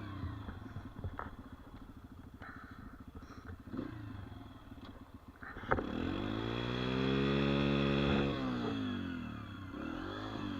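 Dirt bike engine idling with a low, even putter, then revving up about six seconds in, holding a steady high pitch for a couple of seconds and dropping back to idle.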